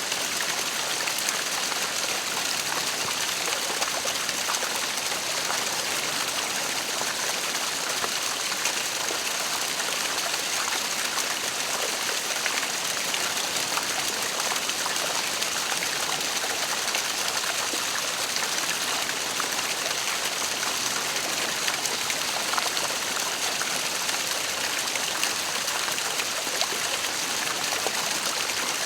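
Waterfall splashing in a steady, unbroken rush of falling water.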